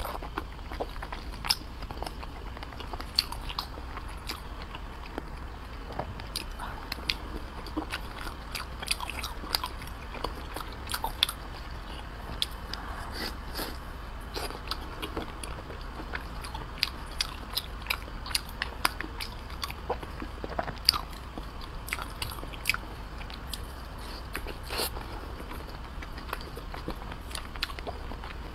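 Close-miked chewing of a soft braised dumpling with a minced pork-and-egg filling, with many sharp, irregular wet mouth clicks and smacks throughout.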